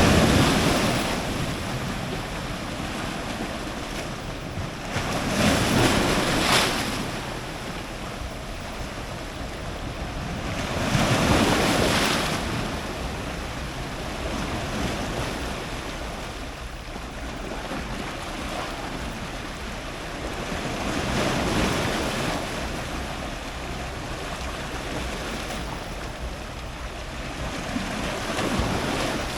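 Strong ocean surf breaking close to the waterline. A breaking wave swells up into a loud wash about every five to ten seconds, with a steady hiss of moving water between them.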